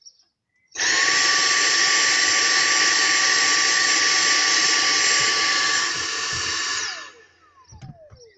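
Vacuum cleaner switched on about a second in, its motor running steadily with a high whine for about six seconds, then switched off, the whine falling in pitch as the motor winds down.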